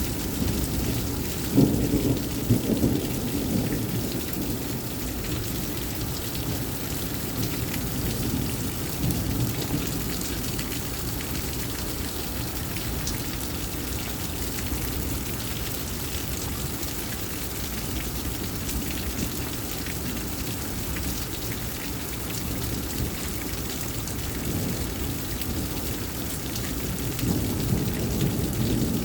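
Thunderstorm: steady heavy rain, with thunder rumbling about two seconds in and again near the end.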